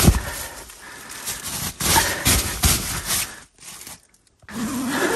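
Snow being knocked and brushed off nylon tent fabric: a series of thumps and scraping rasps, which break off about three and a half seconds in.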